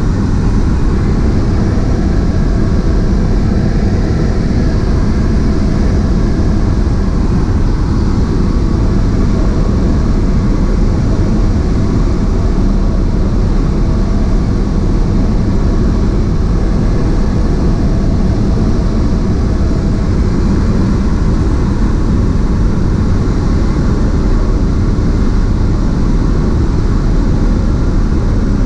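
Cessna 152's four-cylinder Lycoming engine and propeller running steadily, heard as a loud, even drone from inside the cabin.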